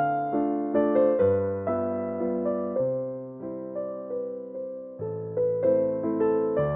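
Background music: a gentle, slow piano melody, each note struck and decaying in a steady, even rhythm.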